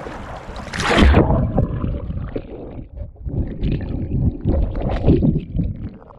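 Sea water splashing and sloshing around a waterproof action camera held in the water. A loud splash comes about a second in, and after it the sound turns muffled, with irregular surges of water against the camera.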